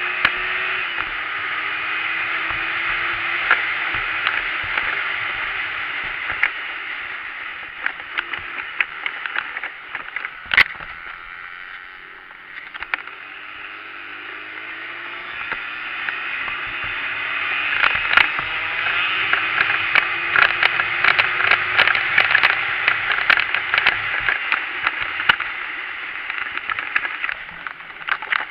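Small dirt bike engine running, its pitch rising and falling with the throttle, with many scattered clicks and knocks over it. The engine fades about halfway through, then grows louder again from about 15 seconds in.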